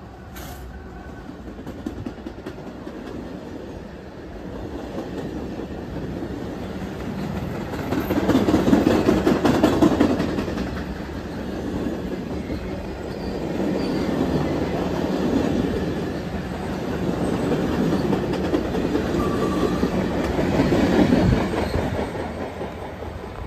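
Train rolling past, its wheels clattering on the rails, the sound swelling and fading in waves and loudest about eight to ten seconds in and again near the end.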